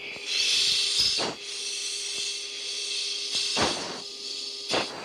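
Hissing rush over an F-16's cockpit intercom, loudest for about the first second, then weaker. A steady low hum runs underneath, and a few sharp clicks come at intervals.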